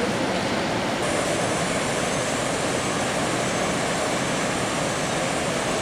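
Waterfall in full monsoon flood: a steady, unbroken rush of heavy falling water.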